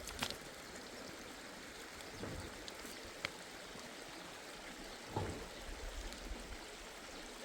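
Steady rush of a flowing mountain stream, with a few light clicks and one soft thump about five seconds in.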